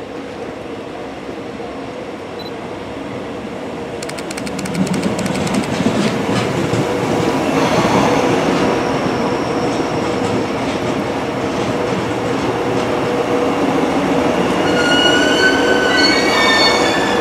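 JR East GV-E400 diesel-electric railcar pulling into the platform and slowing to a stop, growing louder from about four seconds in as its wheels click over the rail joints. Near the end, high squealing tones step upward as it brakes to a halt.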